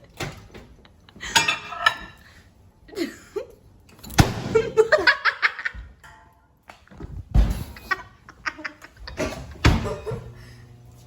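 Fits of laughter in short bursts, broken by a few sharp knocks.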